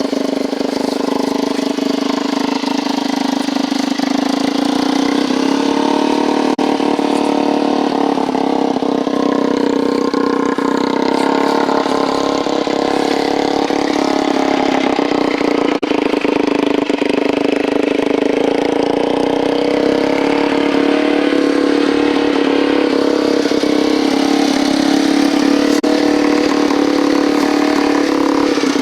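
Yamaha TT-R125 dirt bike engine, a single-cylinder four-stroke, running steadily on a homemade racing lawn mower, with only small changes in pitch.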